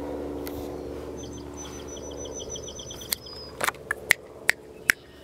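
A songbird's fast trill of short, high chirps for about two seconds, over a low engine-like hum that fades out. In the second half come a handful of sharp clicks or taps, the loudest sounds.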